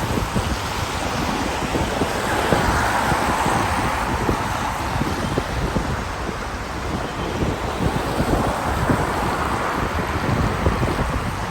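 Wind buffeting the microphone over a steady wash of outdoor noise, which swells a little about two to four seconds in.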